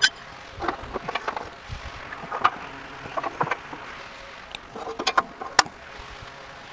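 Irregular metallic clinks and knocks of tools and parts being handled during rear axle work, some ringing briefly, with a quick cluster of sharp clicks about five seconds in.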